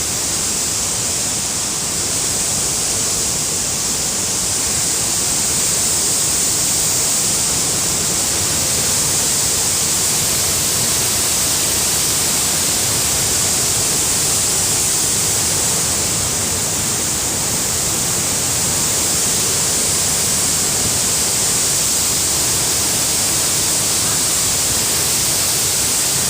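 A waterfall in flood: floodwater pouring down in a loud, steady rush that never lets up.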